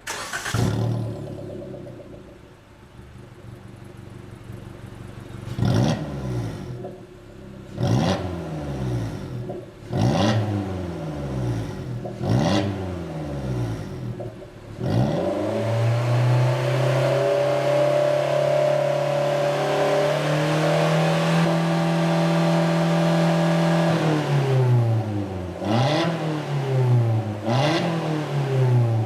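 Suzuki Jimny's engine breathing through a Sense Brand aftermarket rear-piece muffler with left and right exits. It starts up, settles to idle, then takes a series of quick throttle blips. Revs are held high for about ten seconds, then it blips several more times near the end.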